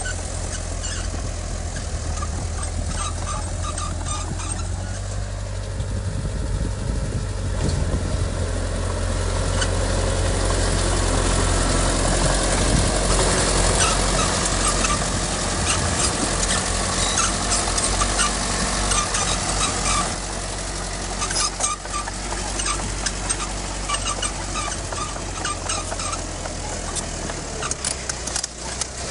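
Heavy diesel earthmoving machinery engine running steadily. It grows louder for several seconds in the middle and eases off about twenty seconds in.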